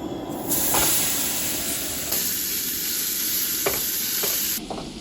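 Ground beef frying in an oiled pan: a loud sizzle with a few clicks of a utensil against the pan. The sizzle cuts off suddenly near the end.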